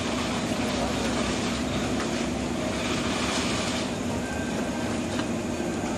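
Limited-express electric train at the platform giving a steady hum under an even rushing noise, with a faint thin whine near the end.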